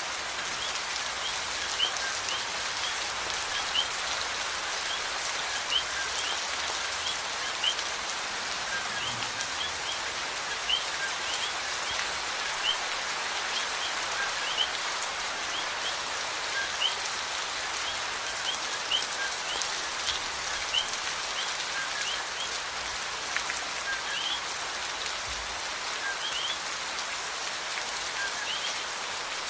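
Steady rain falling, an even hiss of drops, with a short high chirp repeating about once a second over it.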